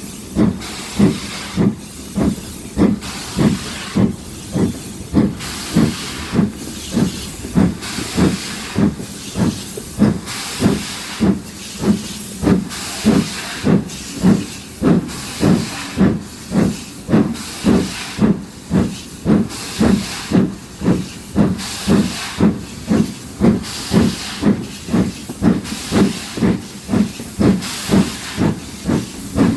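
GWR Castle-class four-cylinder 4-6-0 steam locomotive 4079 Pendennis Castle working hard up a gradient, its exhaust beating steadily at about two chuffs a second with a hiss of steam.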